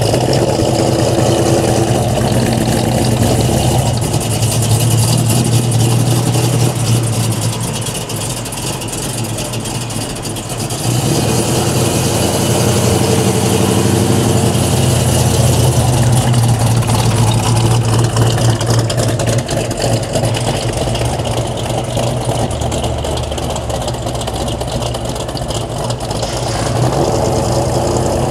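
A V8 muscle car engine running at idle, a steady low sound that grows louder and quieter a few times.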